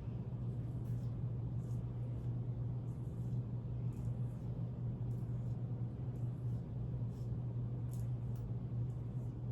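A steady low hum with faint, scattered light ticks over it.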